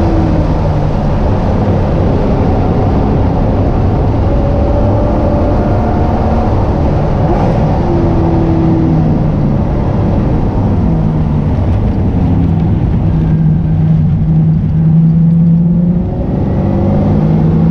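SN95 Ford Mustang engine running hard on a track lap, heard from inside the cabin. Its pitch rises and falls with throttle and gear changes over a steady low rumble.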